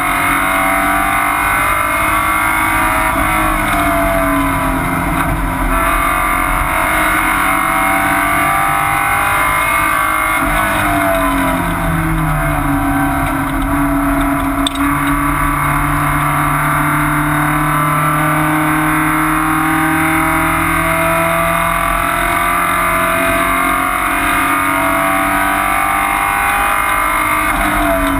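Porsche 944 Spec race car's four-cylinder engine running hard at racing revs, heard from inside the stripped, roll-caged cockpit. Its pitch drops and climbs again a few times with the gear changes and corners, holding high and steady through the middle stretch.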